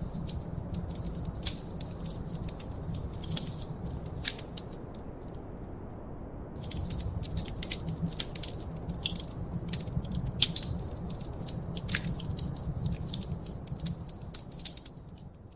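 Wood fire crackling: sharp, irregular pops and snaps over a low, steady rumble of flame. The crackle stops briefly about five seconds in, comes back, and fades away near the end.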